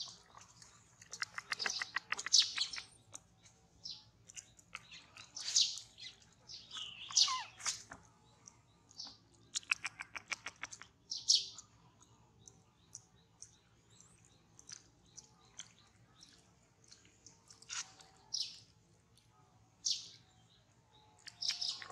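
Birds chirping: short, high calls scattered throughout, with two rapid trills, one about a second in and one about halfway through.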